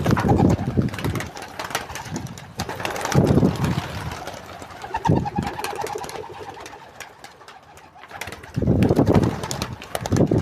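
Domestic pigeons cooing: several low coos a few seconds apart.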